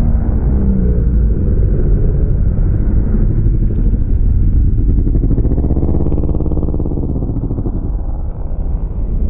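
Racing motorcycles accelerating hard off the start, running past a stalled bike, their engine notes rising and falling in pitch as they go by. The sound is muffled and heavy in the low end.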